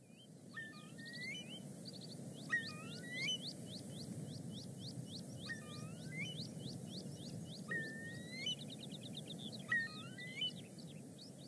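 Several small birds singing and calling outdoors: quick rising chirps, short curving whistles and a brief rapid trill about eight seconds in, over a steady low background noise.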